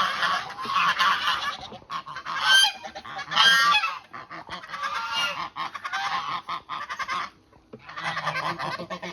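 A flock of farm fowl calling and honking. Two louder honking calls come about two and a half and three and a half seconds in, and the chatter briefly drops away near the end.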